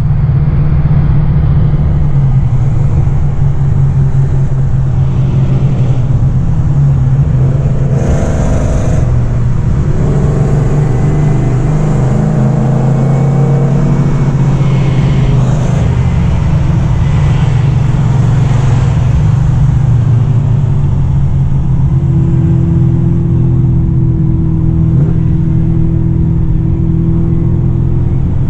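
Car engine running with a loud, steady low drone. Through the middle, other engine notes rise and fall over it.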